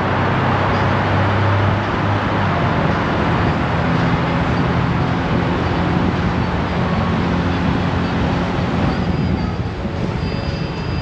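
Honda Gold Wing DCT's flat-six engine running steadily at road speed, under heavy wind and road noise.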